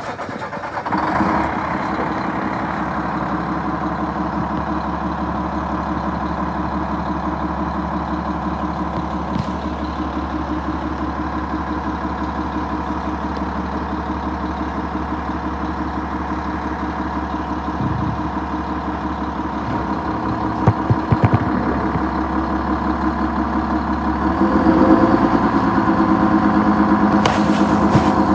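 Garbage truck's diesel engine running steadily, coming up in level about a second in. It grows louder for the last few seconds, with a few sharp clicks shortly before.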